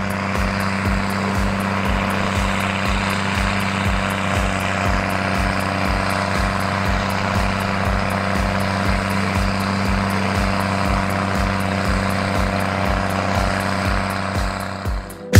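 New Holland T6030 tractor engine running at a steady speed through an open straight steel exhaust, a constant heavy drone with no change in revs.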